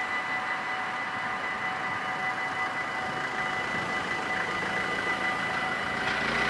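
Warning bells of an automatic half-barrier railway level crossing ringing steadily, over a rushing background noise that swells near the end.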